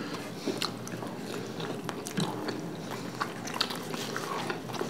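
Two people chewing and biting gobi paratha (cauliflower-stuffed flatbread) with curd, with irregular wet mouth smacks and small clicks.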